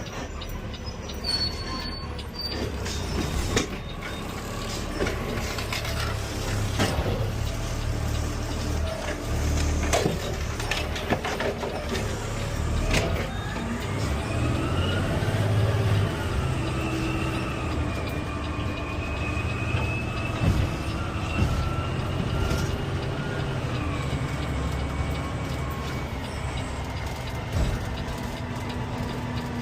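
Automated side-loader garbage truck running, with several knocks and clanks, then a whine that rises, holds for several seconds and falls away.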